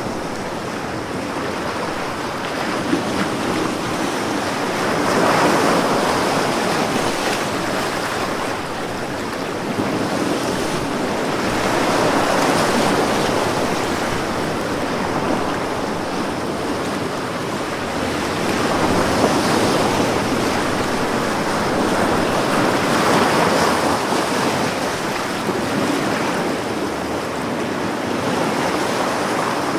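Sea waves breaking and washing onto a beach, each wave swelling up and falling away every few seconds.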